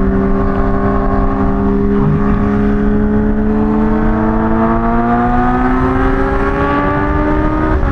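Kawasaki Ninja H2's supercharged inline-four running under way at steady revs, its pitch climbing slowly over several seconds as the bike gathers speed, then stepping down near the end at an upshift. A constant low rumble of riding wind sits underneath.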